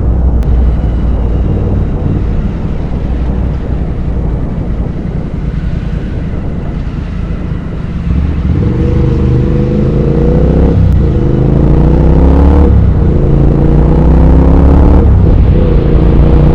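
Triumph Speed Twin 1200's parallel-twin engine through short aftermarket slip-on exhausts, heard from the rider's seat: running steadily at first, then about eight seconds in it accelerates with the note climbing, shifting up three times with a brief drop at each change.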